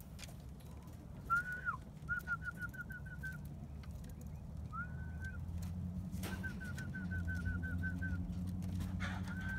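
A bird singing clear whistled notes: a slurred whistle followed by a quick run of short repeated notes, the pattern given twice, with a longer run about six seconds in. A steady low hum lies underneath.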